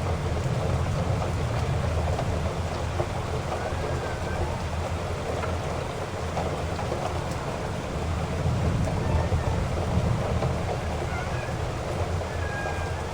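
Heavy rain pouring steadily, an even hiss with a low, continuous rumble underneath.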